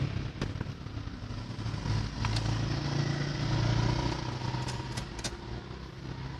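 A motor vehicle engine running, growing louder toward the middle and then fading, with a few light clicks.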